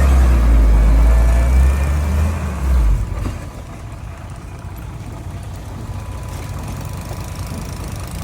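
Heavy diesel engine running loud for the first three seconds, then dropping off sharply to a quieter, steady running for the rest.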